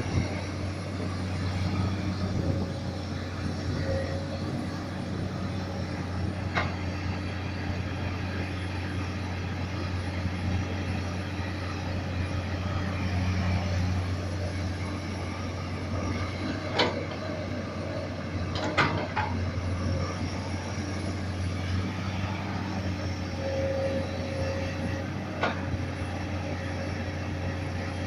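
Komatsu PC200 hydraulic excavator's diesel engine running steadily under digging load, with a low drone. Several sharp knocks stand out above it, two of them close together about two-thirds of the way in.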